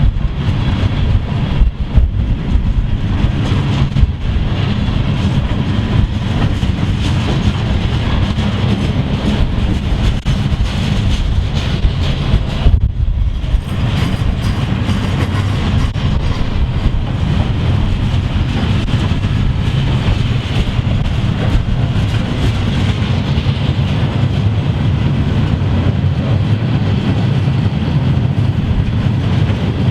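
A train rolling past close by: a loud, steady rumble of railcars on the rails, with sharp clicks of wheels passing over rail joints.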